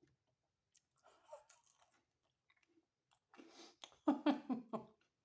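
Close-up chewing and wet mouth sounds of someone eating homemade pizza, followed near the end by a short hum from the voice with the mouth full.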